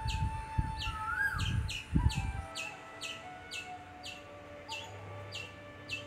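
A bird calling over and over in short falling chirps, about two a second, with soft instrumental music underneath. A few low thumps and some rumble come in the first two seconds.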